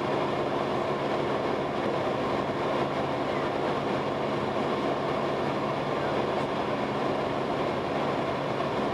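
Cessna 172S's Lycoming IO-360 four-cylinder engine and propeller droning steadily at constant power.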